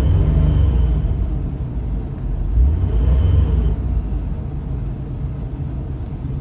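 Chevy Astro van's 4.3L V6 engine running, a steady low rumble that swells twice, running smoothly with the check engine light off.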